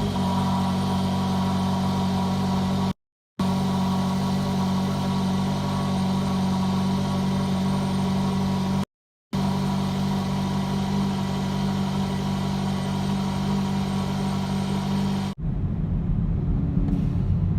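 2018 Hyundai Elantra Sport's 1.6-litre turbocharged four-cylinder idling steadily just after starting, heard through the exhaust with the resonator removed and the stock muffler kept. The sound cuts out twice briefly. A couple of seconds before the end it gives way to a rougher, lower rumble.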